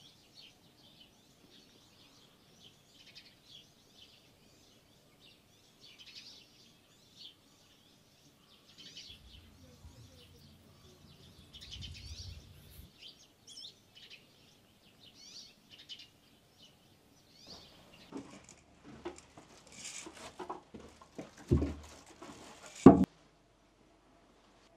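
Small birds chirping and twittering, with a brief low rumble in the middle. Near the end come rustling and knocks, with two loud thumps, the last one the loudest sound here.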